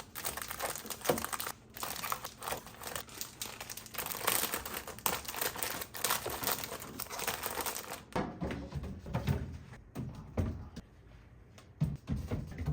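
Plastic bags or packaging crinkling steadily as they are handled. About eight seconds in, this gives way to softer handling knocks and thuds.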